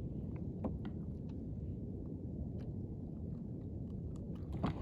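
Steady low rumble of wind and sea on the microphone out on a kayak, with a few light scattered clicks and taps, the sharpest one just before the end.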